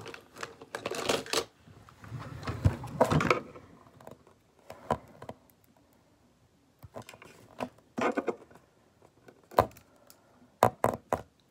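Irregular handling noise: a busy stretch of rustling and knocks with a low thump in the first few seconds, then scattered sharp clicks and taps.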